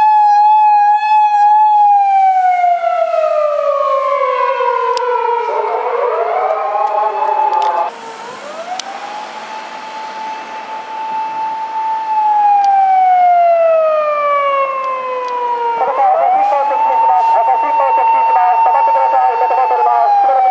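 Japanese police patrol car siren (210-series Toyota Crown) wailing on an emergency run. Each cycle rises quickly, holds a high steady tone for a couple of seconds, then glides slowly down. About eight seconds in it breaks off abruptly, comes back quieter and swells loud again.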